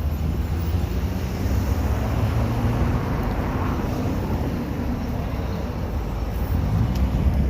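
Steady road and engine noise of a moving car: a continuous low rumble with no distinct events.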